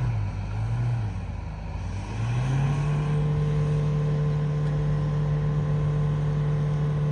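Mahindra Thar 4x4's engine under hard load climbing a steep sand dune, wheels spinning and spraying sand. The revs dip over the first couple of seconds, then climb about two and a half seconds in and hold high and steady.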